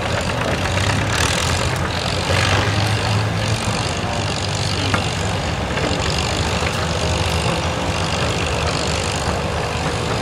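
Tractor engine running steadily with a low drone, under a wash of outdoor noise; a faint steady whine joins in the second half.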